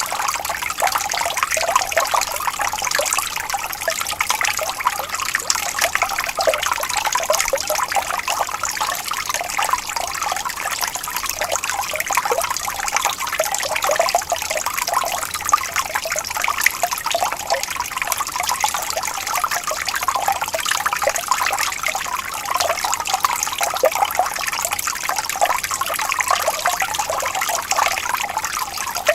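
Water flowing gently and steadily, a continuous trickle and babble with many small splashes and no pauses.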